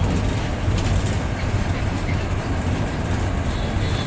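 TNSTC bus heard from its driver's cabin while moving: a steady low engine and road rumble, with body rattle and a brief clatter about a second in.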